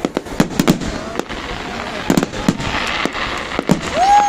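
Fireworks display: aerial shells bursting in sharp bangs, several coming in quick pairs. Near the end a held tone rises in and stays level.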